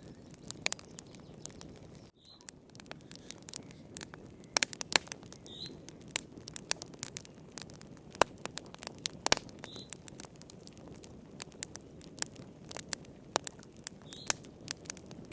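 Wood fire crackling in a fireplace: irregular sharp pops and snaps over a steady low rumble of the flames. A few faint short high chirps come through about every four seconds.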